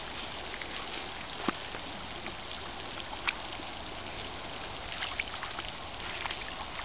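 Creek water running steadily, with scattered drips and small splashes on top, a few more of them near the end.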